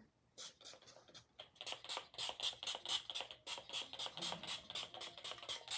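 Fragrance mist spray bottle being pumped over and over, a hiss with each spritz. A few spritzes come first, then a quick steady run of about four or five a second.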